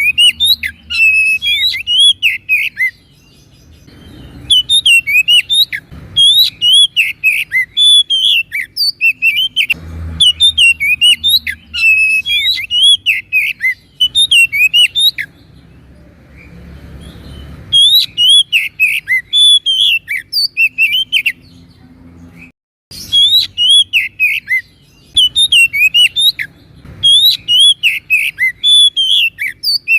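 Oriental magpie-robin (kacer) in full song: fast bouts of varied high chirps and whistled slurs, broken by a few short pauses, over a faint low hum.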